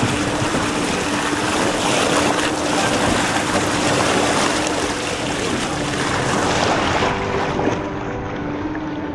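A steady, loud rushing noise with a low, even hum running beneath it. The rushing drops off sharply near the end.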